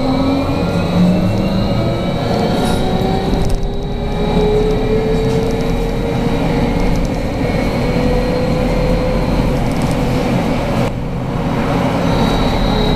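Interior sound of a BKM 43300D trolleybus under way: the electric traction drive whines in several tones that climb slowly as it gathers speed, over a steady high-pitched tone and constant road rumble.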